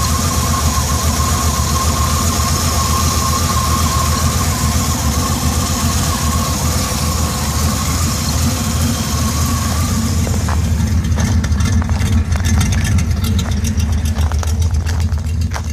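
Chevy 305 V8 with a Crane 274H06 camshaft and headers idling on its own, shortly after a reluctant cold start. About two-thirds of the way through, a steady hiss drops away and the uneven exhaust pulses come through sharper.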